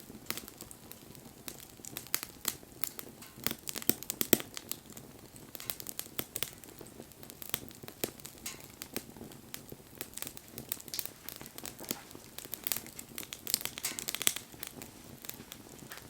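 Wood fire crackling, with irregular sharp pops and snaps. They come in dense clusters about a quarter of the way in and again near the end.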